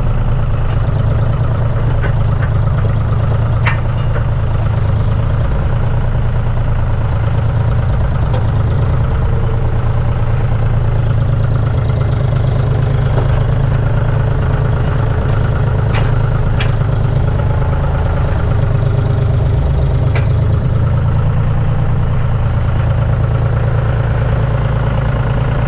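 Tractor engine running steadily, with a few short sharp clanks over it.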